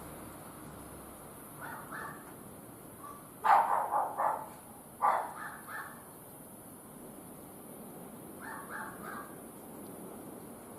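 An animal calling in short runs of two to four repeated calls, four runs in all, the loudest about three and a half seconds in.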